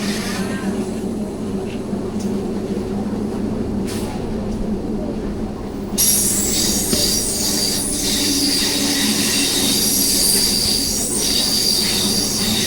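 Train running along the track with a steady rumble; about halfway through it suddenly gets louder, and high-pitched wheel squeal rings over it until the end.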